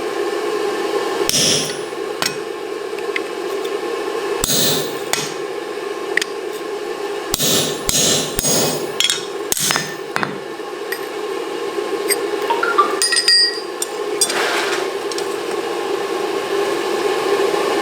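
Hammer blows driving an oval punch into hot mild steel on the anvil to punch the eye of a pair of tongs, a handful of irregularly spaced strikes with a quicker cluster of several partway through, over a steady hum.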